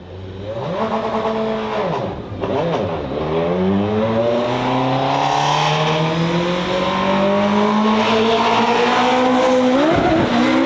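Race car engine under hard acceleration. Its pitch rises, drops sharply about two seconds in, climbs steadily for several seconds and drops again near the end.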